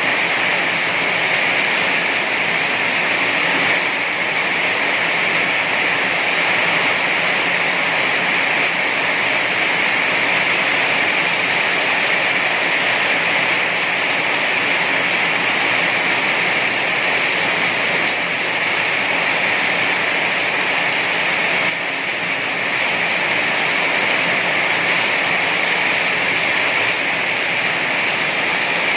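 Heavy rain falling steadily: a dense, even hiss with no pauses or distinct drops.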